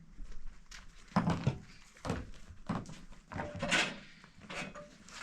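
A series of irregular knocks and clatters, some close together, the loudest just over a second in and again near four seconds in.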